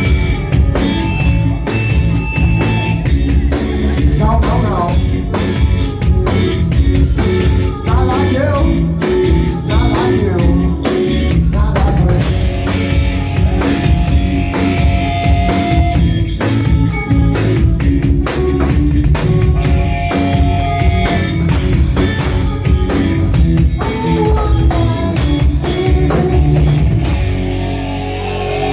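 Live rock band playing loud: drum kit pounding a steady beat under electric guitar, with singing over it.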